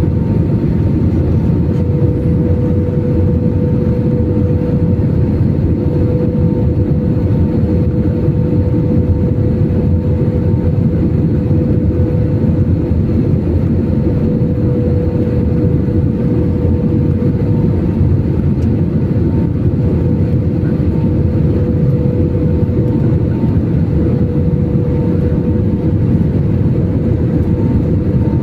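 Steady engine and airflow noise inside an airliner cabin in flight, with a constant mid-pitched whine over the low rumble.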